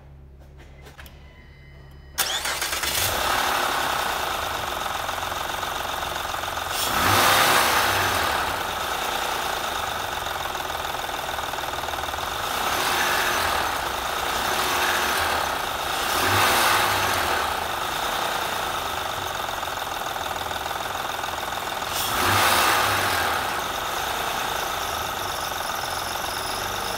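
2007 Honda Odyssey's 3.5-litre V6 starting about two seconds in, then running steadily with a mechanical noise that swells four times. The noise seems to come from the timing-belt tensioner.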